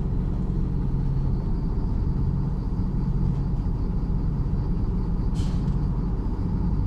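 MAZ-103 city bus running, heard from inside the passenger cabin: a steady low rumble of engine and road, with a short hiss about five seconds in.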